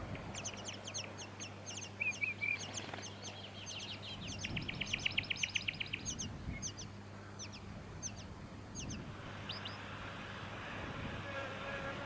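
Small birds calling: a scatter of short, thin, high notes that each sweep steeply downward, with a fast even run of about a dozen notes midway through.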